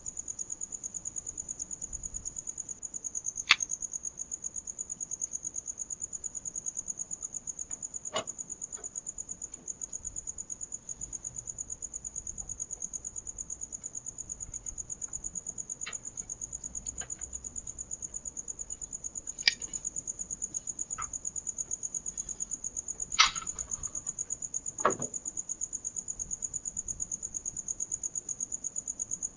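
Crickets chirping steadily in a fast, even pulse, with a handful of sharp clicks and knocks scattered through it, the loudest a few seconds in and about two-thirds of the way through.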